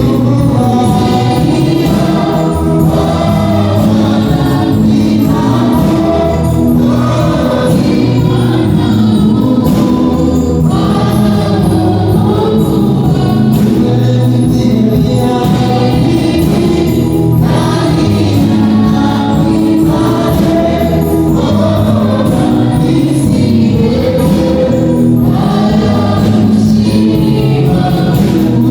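Gospel choir singing over steady instrumental accompaniment.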